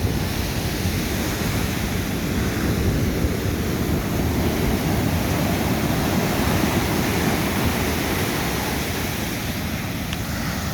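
Pacific Ocean surf breaking and washing up the beach: a steady, heavy rush of water, swelling slightly a few seconds in, with wind rumbling on the microphone.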